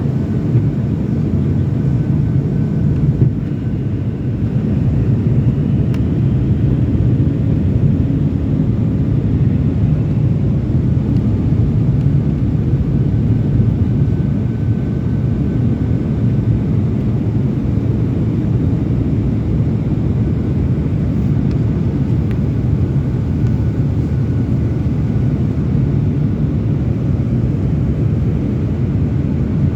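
Steady rumble of jet engines and rushing air inside an airliner cabin, heard from a window seat, with a faint high whine that comes and goes.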